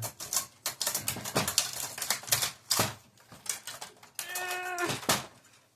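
Rapid clicking and clattering of plastic printer parts being handled and pulled apart, then a cat meows once, about four seconds in.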